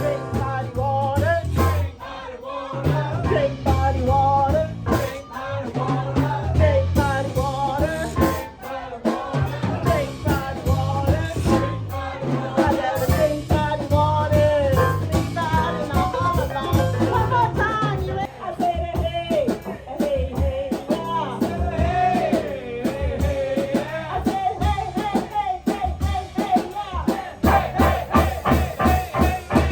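Blues band playing live: a singer's voice bending through the melody over bass and a drum kit keeping a steady beat.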